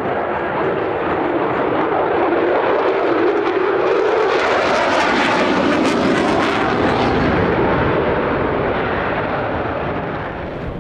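U.S. Air Force F-16 Fighting Falcon's jet engine roaring past in a fly-by, the noise swelling to its loudest and sharpest about halfway through and then fading.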